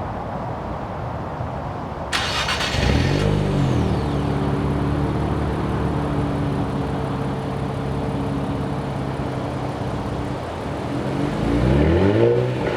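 Nissan Z's 3.0-litre twin-turbo V6 through a Nismo cat-back track exhaust, starting up: a brief starter burst about two seconds in, then the engine fires with a rev flare and settles into a steady idle. Near the end it gets one throttle blip that rises and falls.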